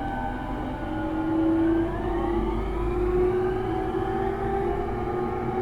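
JR East E231-series electric train's traction motors and VVVF inverter whining under the motor car, several tones rising in pitch together as the train gathers speed, over a steady rumble of running gear.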